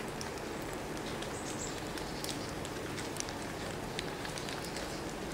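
Steady outdoor rain ambience: light rain with scattered drops ticking over a low background rumble, and a brief high chirp about one and a half seconds in.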